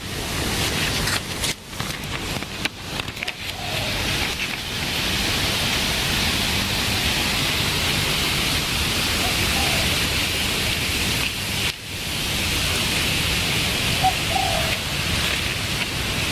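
Steady hiss of falling water, with a few faint, short, low bird calls about 4, 9 and 14 seconds in.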